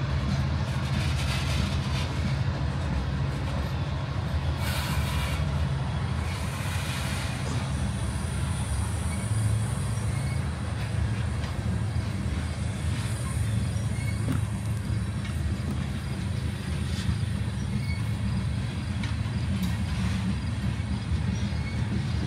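Freight train of CSX covered hopper cars rolling slowly past, a steady low rumble of steel wheels on the rails. A few brief higher-pitched noises come in the first eight seconds, and there is a single click about fourteen seconds in.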